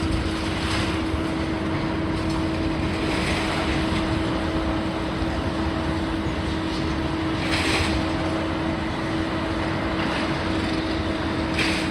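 Heavy demolition machinery running steadily with a constant engine hum, with a few short rushes of higher noise over it.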